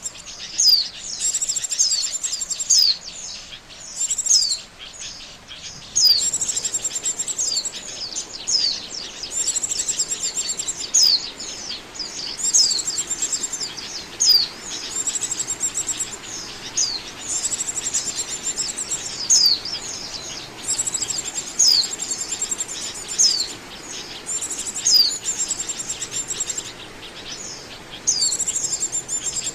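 White-eye (pleci) song: bursts of high twittering chirps, each about a second long, repeating with only short gaps. This is a lure call, meant to draw wild white-eyes in.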